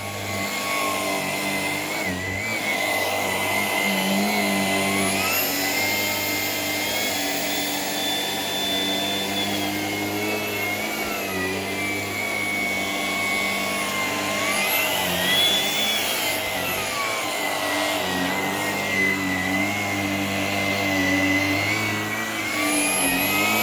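Shark PowerDetect IP1251 vacuum cleaner running steadily, its motor whine rising and falling in pitch several times, each time held higher for a few seconds. The speed-ups fit the vacuum boosting suction as it detects dirt, which the owner finds when he pushes it along the baseboard.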